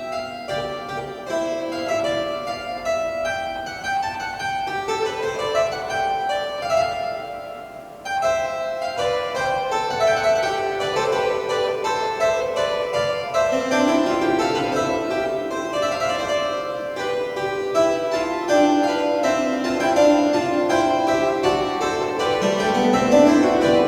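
Pipe organ playing a fugue, several voices moving against each other in counterpoint. The sound thins out briefly about eight seconds in, then comes back fuller, with rising runs in the lower voices.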